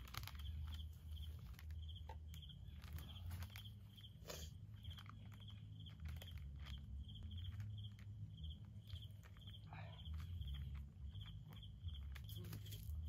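A cricket chirping steadily, short high chirps about twice a second, over a constant low rumble. Scattered clicks and knocks of handling are heard throughout.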